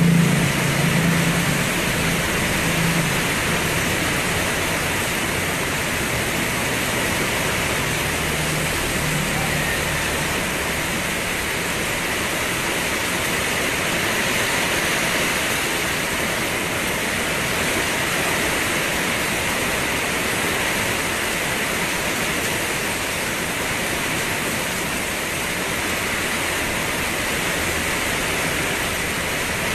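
Steady rainfall, an even hiss that holds constant throughout. A low engine hum fades out in the first few seconds.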